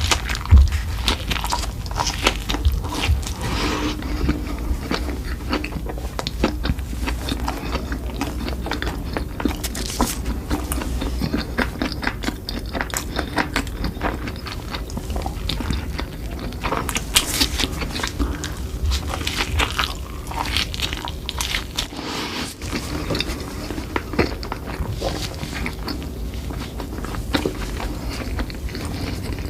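A person biting and chewing crunchy food in a mukbang: steady crackling chewing, with louder crunchy bites now and then.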